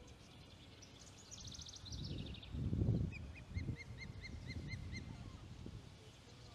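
Osprey calling: a quick run of high whistled notes falling in pitch, then a steady series of short chirps, about five a second. Low rumbles come and go underneath, loudest about three seconds in.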